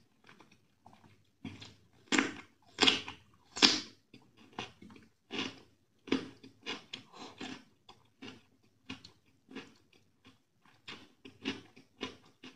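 Close-miked chewing of a mouthful of rice and raw cucumber, with three loud crunching bites about two to four seconds in, then a steady run of chewing.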